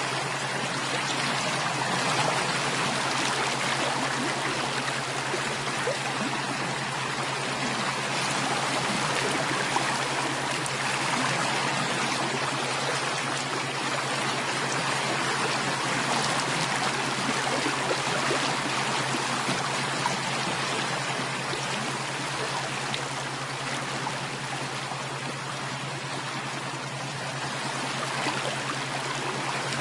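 Running water of a flowing stream, a steady, unbroken rush.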